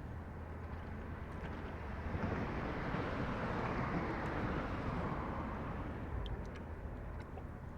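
A vehicle passing by: a smooth rushing noise that swells for a couple of seconds and then fades away, over a steady low hum.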